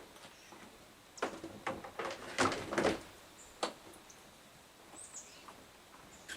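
A run of sharp knocks and clatters about a second in, lasting a couple of seconds, with one more knock shortly after. A few faint, high bird chirps that fall in pitch come later.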